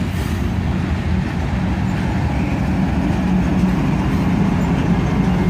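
Two mid-train distributed-power diesel locomotives, a GE ES44AC-H and an EMD SD40-3, passing close with their diesel engines running: a loud, steady low engine drone with a constant hum and heavy rumble.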